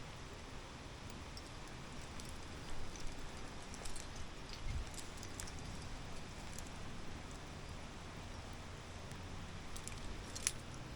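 Faint rustling with a few short, sharp clicks, the loudest about ten and a half seconds in, over a steady low background hiss.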